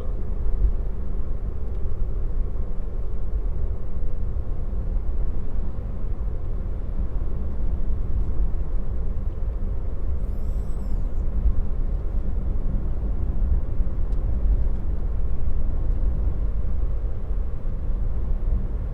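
Steady low road and tyre rumble from a Tesla electric car driving along, heard inside the cabin. A brief high chirp about ten seconds in.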